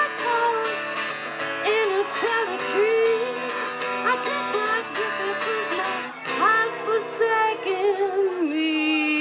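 Live band music: a woman's voice sings sliding, wordless vocal lines over guitar and drums, settling on a held, wavering note near the end.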